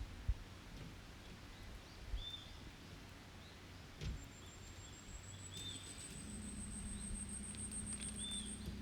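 Forest birds calling: a few short, repeated chirps and, from about four seconds in, a long, very high, thin trill. There are a few brief pops, and a low steady hum comes in about six seconds in.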